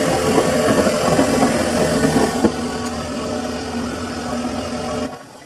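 Samsung washing machine running a wash cycle, its motor turning the drum with a steady mechanical hum and rumble. There is a single clunk about two and a half seconds in, after which it runs a little quieter, and the drum sound drops away suddenly near the end.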